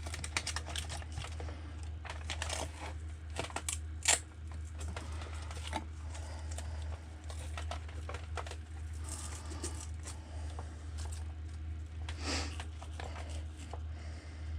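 Rustling, crinkling and small clicks of a LiPo battery and its wires being handled and fitted into an RC truck's battery tray, over a steady low hum.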